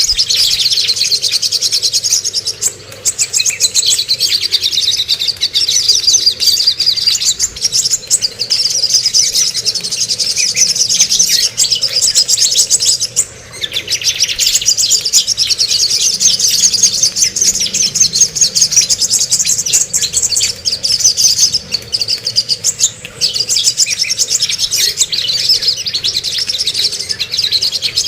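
Songbirds singing continuously in a fast, high-pitched, chattering stream, with short breaks about three seconds in, near the middle and again near the end. This is a recording of cucak kombo and songok inyong song played as a tutor for cage birds.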